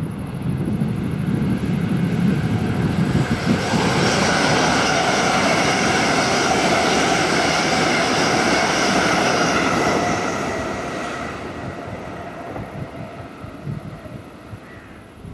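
A train passing by at speed: its noise swells over the first few seconds, holds loud for about six seconds, then fades away.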